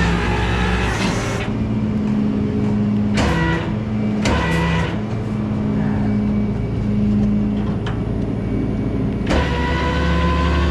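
Rollback tow truck running with its winch engaged: a steady mechanical hum whose pitch steps up and down every second or so, with a few sharp clicks and knocks.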